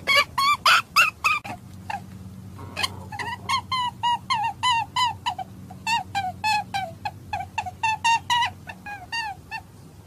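A bird's rapid run of short chirping calls, about three or four a second, with a break of a second or so near the start, over a faint steady low hum.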